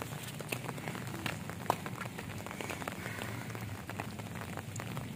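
Rain falling steadily, with many sharp, irregular drop strikes over a constant hiss; one strike about a second and a half in is louder than the rest.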